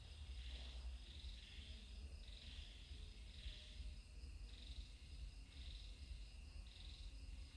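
Insects trilling in short high-pitched pulses, about one a second, over a faint low rumble.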